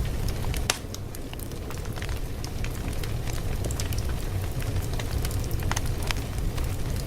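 Fire crackling steadily over a low rumble, with scattered sharp pops and one louder pop less than a second in.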